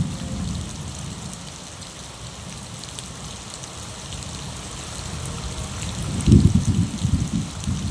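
Steady rain falling, with scattered drops ticking on surfaces. A low rumble swells about six seconds in and fades over a second or so.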